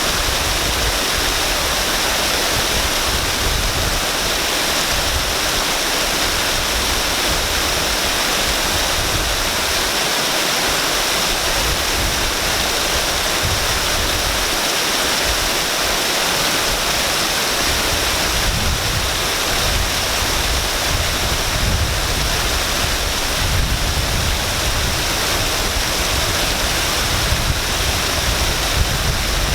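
Waterfall: water pouring down and splashing in a steady, unbroken rush.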